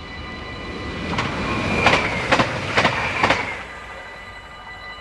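An electric passenger train passes over the level crossing. A rushing noise swells to a peak about two seconds in, with a quick run of sharp clacks as the wheelsets cross the rail joints and a brief high squeal, then fades. The crossing's warning bells ring underneath and thin out after the train has passed.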